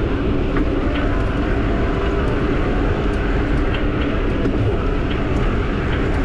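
Steady wind rush and tyre rumble of a Giant e-bike riding along a trail, with faint sharp ticks recurring irregularly, about once every half second to a second: the unexplained ticking noise coming from the bike.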